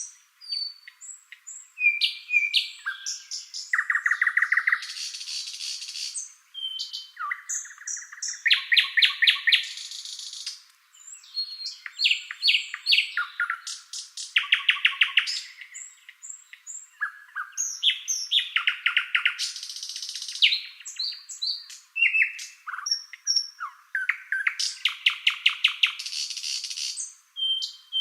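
Songbirds singing: a steady run of varied phrases of clear whistled notes, short glides and fast runs of repeated notes, a new phrase every second or two.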